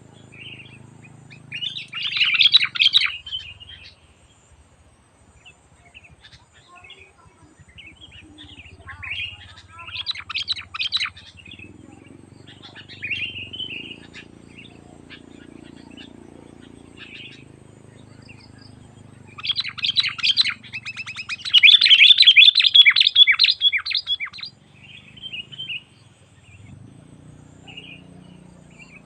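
Sooty-headed bulbul (kutilang) singing in bursts of rapid, chattering notes, four bursts in all, the longest and loudest about two-thirds of the way through.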